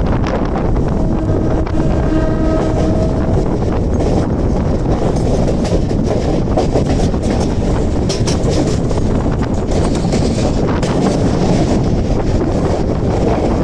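Mumbai local electric suburban train running along the track, heard from its open doorway: a steady rumble of wheels on rail with wind on the microphone, and a run of clicks from the wheels over rail joints in the second half. A brief held tone sounds about a second in.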